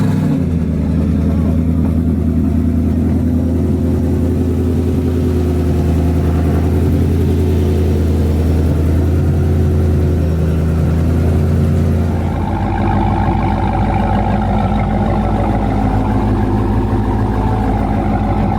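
Car engine idling steadily, loud and close. About twelve seconds in its tone changes and a steady higher whine joins it.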